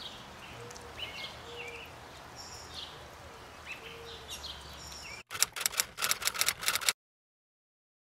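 Small birds chirping and singing over a faint steady outdoor hum. About five seconds in this gives way to a rapid run of sharp clicks lasting about a second and a half, then silence.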